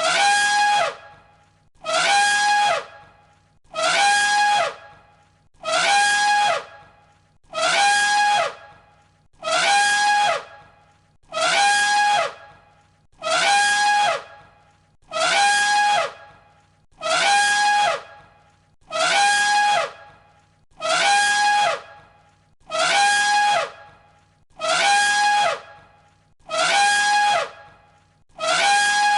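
Elephant trumpeting: the same short, loud, brassy call repeated identically about every two seconds, a looped recording of one trumpet call.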